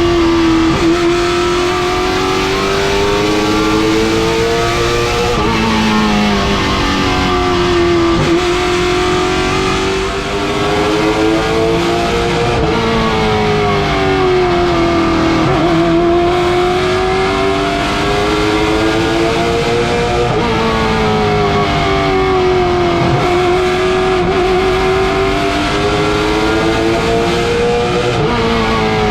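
Late model stock car V8 racing around a short oval: the engine pitch climbs steadily for several seconds, then drops sharply before climbing again, over and over, as it accelerates down the straights and lifts into the turns.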